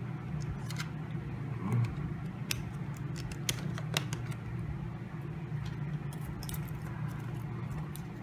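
Scattered light clicks and taps of small phone parts and tools being handled during a smartphone reassembly, over a steady low hum.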